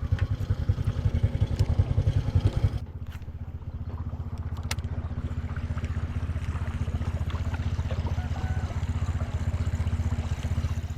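Boat engine running with a low, even pulsing; it drops to a quieter, steadier note about three seconds in as the throttle eases off.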